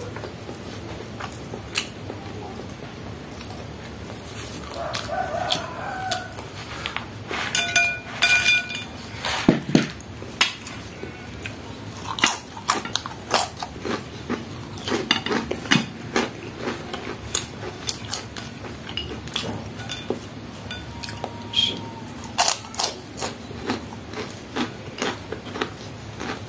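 Close-up eating sounds of someone eating rice and crisp spicy fried macaroni by hand: many sharp crunches, chewing and mouth smacks. Chickens cluck briefly in the background, around five seconds in and again near eight seconds.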